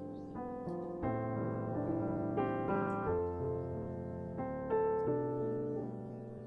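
Background piano music: soft chords struck every second or so and left to ring.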